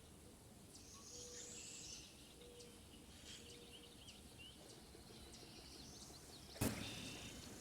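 Faint wetland ambience of small birds chirping and calling, with a few short low notes in the first half. About two-thirds of the way through comes one sharp, loud click.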